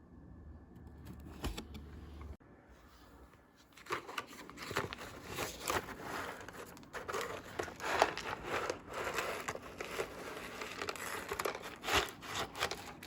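Cardboard and paper packaging of an old Kraft macaroni and cheese box crinkling and rustling as it is handled and its contents poured out, with many small clicks and crackles. It starts about four seconds in, after a quiet start.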